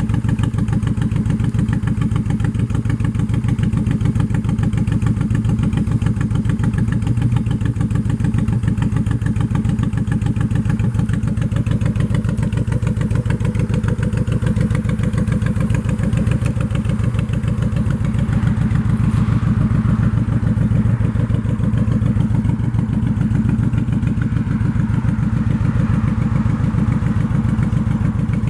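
Honda VTX1800R V-twin engine idling steadily through a Vance and Hines aftermarket exhaust, a deep, even lope of firing pulses.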